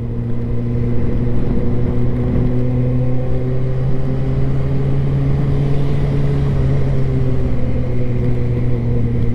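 Motorcycle engine running at a steady cruising speed, with wind and road noise underneath.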